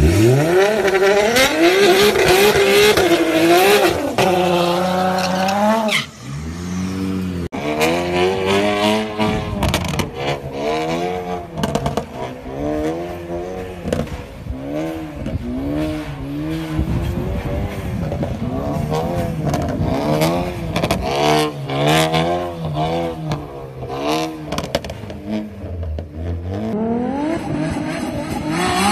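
Performance car engines revving hard, cut together from several clips. First a Nissan GT-R's twin-turbo V6 climbs in pitch for several seconds. After a cut, a drifting car's engine rises and falls again and again, with sharp pops and tyre squeal.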